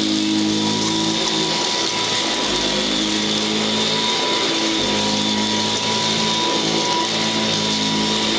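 Royal Model 608 upright vacuum cleaner running steadily, its motor giving a constant whine over a rushing hiss.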